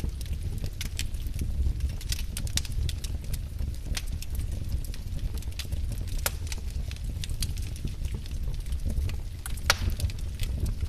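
Firewood burning, crackling with irregular sharp pops over a steady low rumble of the flames; one louder pop near the end.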